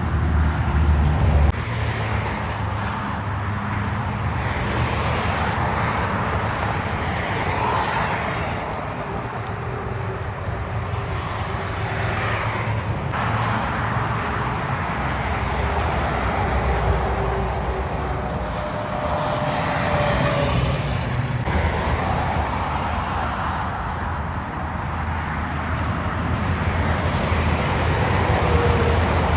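Road traffic with trucks and cars passing: a steady mix of engine rumble and road noise that swells and fades several times as vehicles go by.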